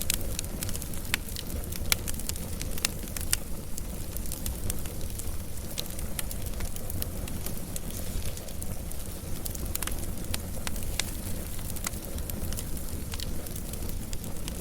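Fire crackling, with frequent sharp, irregular pops and snaps over a steady low rumble of the flames.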